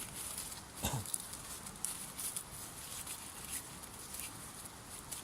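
Wood campfire crackling with scattered sharp pops over a steady hiss, and one louder low thud about a second in.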